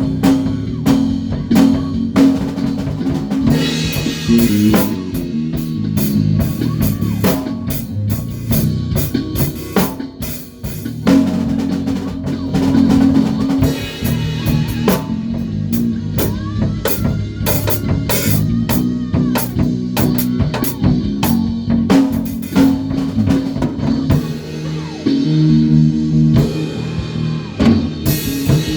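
A band rehearsing without vocals: a drum kit playing with snare and bass drum hits over a bass guitar line.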